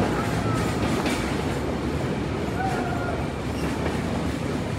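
Tourist train running along the line: a steady rumble of wheels on rail, with a couple of brief faint squeals.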